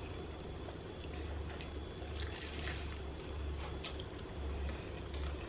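Close chewing and wet mouth sounds of a person eating a fried chicken wing, with a few faint crunches and clicks, over a steady low hum.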